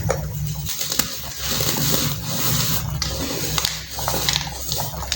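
Dried, reformed baking soda being crushed and crumbled by hand, giving a continuous crunchy crackle with many small crisp snaps.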